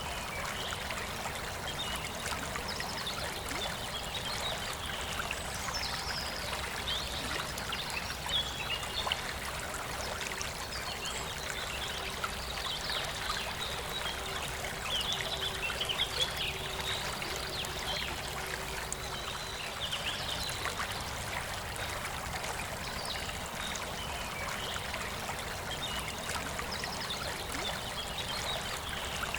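Forest river flowing steadily, with birds chirping now and then in the background.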